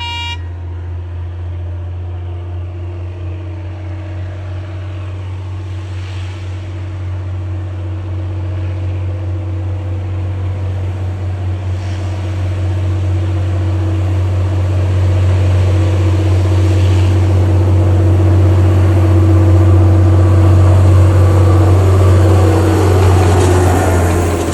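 A diesel train's engine drones steadily with a low hum, growing louder as it approaches. Near the end its pitch slides down as it passes.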